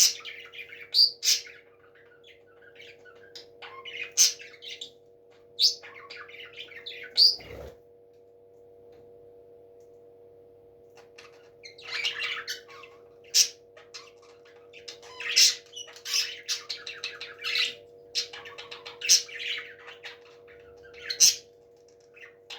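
Parrots chirping and squawking in short, sharp calls: a few single calls, a quiet stretch of about three seconds, then a busier run of chattering calls. A steady low hum runs underneath.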